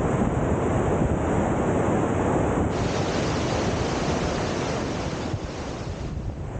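Cauldron Snout waterfall on the River Tees rushing steadily, with wind buffeting the microphone.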